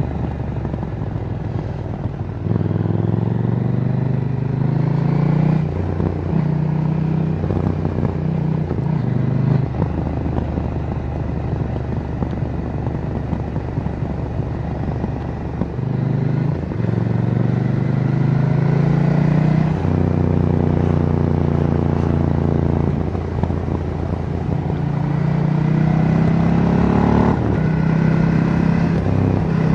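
KTM Duke 790's parallel-twin engine through its stock exhaust, revving up repeatedly with sudden breaks in pitch at quickshifter gear changes, between stretches of steady cruising.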